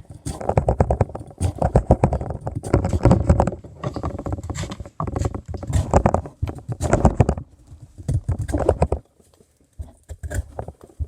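Knife blade shaving a wooden stick in rapid repeated strokes, a dense run of scraping for about nine seconds, then a few scattered strokes near the end.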